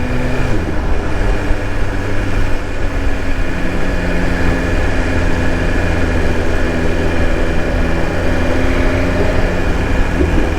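BMW S1000RR's inline-four engine running at steady, low revs.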